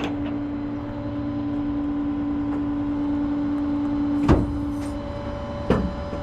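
Rollback tow truck's hydraulic system running with a steady whine. A sharp metallic clunk about four seconds in ends the whine, a fainter, higher whine follows, and a second clunk comes near the end.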